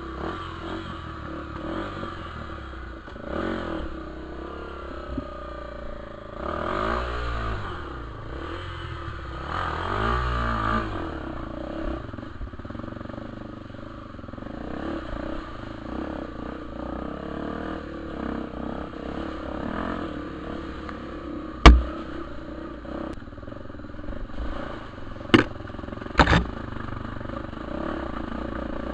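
Honda Tornado 250 trail motorcycle's single-cylinder four-stroke engine running under way, revving up twice in the first half. Later come three sharp knocks, the first the loudest.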